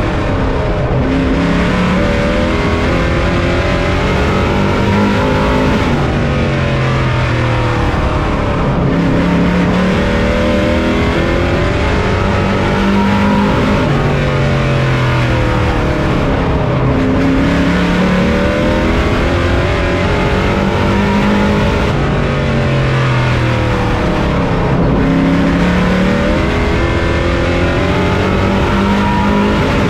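Pro Truck race engine at racing speed, heard from on board. Its pitch climbs, holds and drops back in a repeating cycle about every eight seconds, as the truck accelerates down the straights and lifts for the turns of a short oval.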